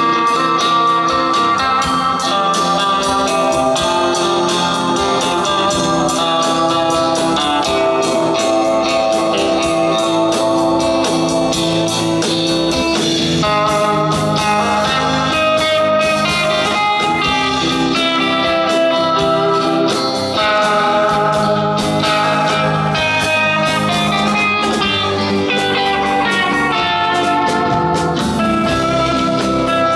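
Live band music with a prominent electric guitar playing a blues-flavoured instrumental passage over a steady beat.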